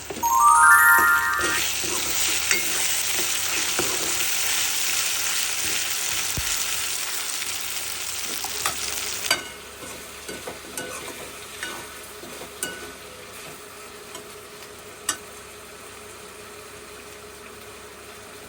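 A loud, even hiss, cutting off abruptly about nine seconds in, after which a quieter background with scattered light clicks remains. It opens with a short rising run of chime-like tones.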